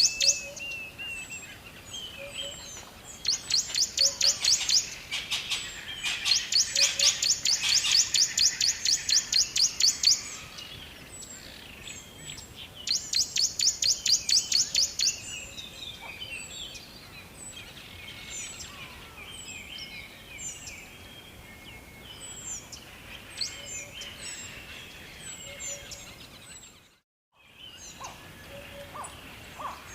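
Birds chirping and singing. A loud series of rapid, high, evenly repeated chirps, about four a second, comes in bursts of a few seconds through the first half, with softer scattered chirps and calls after that. The sound cuts out briefly near the end.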